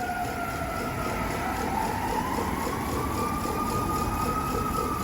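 Fire truck siren wailing: the pitch dips, then rises slowly over about three seconds and begins to fall again near the end. Under it is the low rumble of the passing apparatus.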